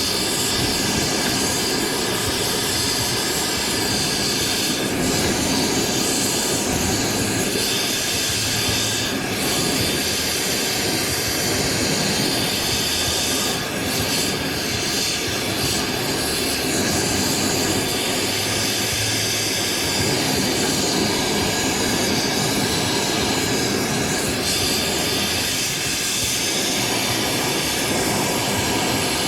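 A steady, unchanging rushing roar with faint steady tones running under it, like a machine or burner running continuously.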